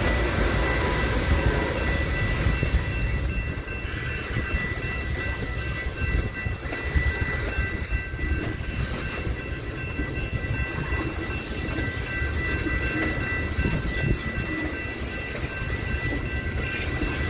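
A train passing with a steady low rumble of rolling cars, and a few steady high-pitched tones held above it throughout.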